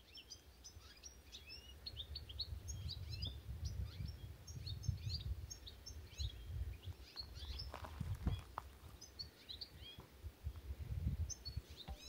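Small birds chirping in many short, quick calls, over a low steady rumble.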